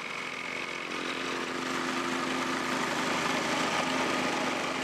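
An engine running steadily, a constant hum over a broad hiss that swells slightly and then eases.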